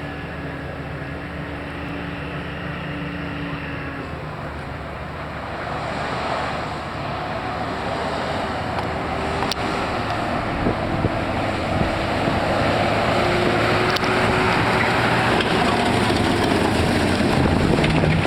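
Stock pickup truck's engine working hard under load as it drags the pulling sled down the track, rising in pitch and getting steadily louder about halfway through, with a broad rushing noise building up towards the end.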